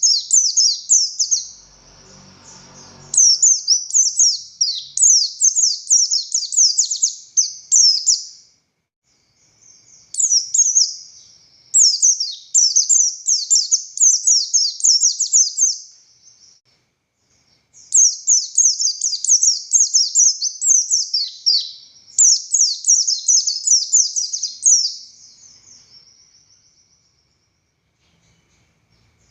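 A buxtoni white-eye (pleci) singing hard in rapid, high, twittering phrases. It sings three long runs of several seconds each, with short breaks between them, and falls quiet near the end.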